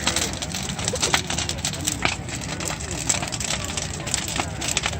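Bonfire of burning wooden pallets crackling, with irregular sharp snaps and pops over a steady rushing of the flames. Faint crowd chatter lies underneath.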